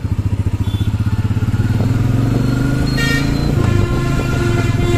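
Royal Enfield Meteor 350's single-cylinder engine thumping as the bike pulls away, its beat quickening and rising in pitch over the first three seconds. A vehicle horn gives a short toot about three seconds in, and another horn sounds longer near the end.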